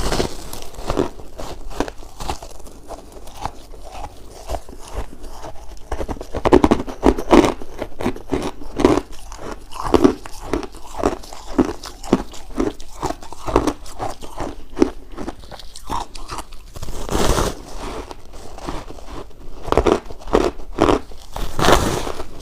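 Shaved ice bitten and chewed close to the microphone: a steady run of crunches, with louder bites about a third of the way in, past the middle, and near the end.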